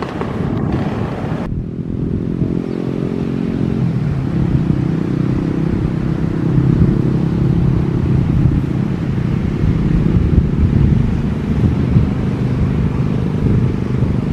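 An engine running steadily with a low, pitched hum that grows slightly louder. About a second and a half in, the hiss above it drops away suddenly.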